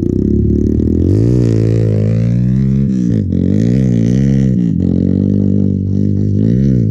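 Hero Impulse motorcycle's single-cylinder engine running at low revs, its pitch rising and falling smoothly with several light throttle blips.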